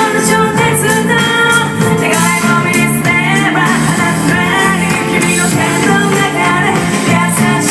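A live rock band playing loudly with a singer, drums and cymbals and pitched instruments together in a full mix.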